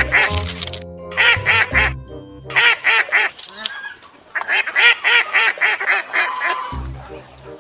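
Ducks quacking in quick runs of several quacks, with a short pause partway through, over background music with a low beat.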